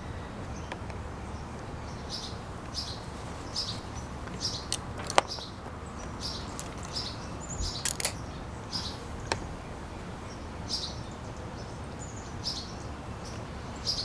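Small backyard bird chirping over and over, in short high chirps one or two a second, over a steady low background hum. A few sharp clicks stand out, the loudest about five seconds in.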